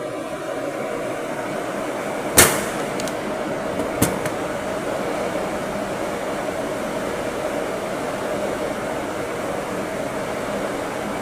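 A steady machine hum throughout, with one sharp knock about two seconds in and a few lighter clicks soon after.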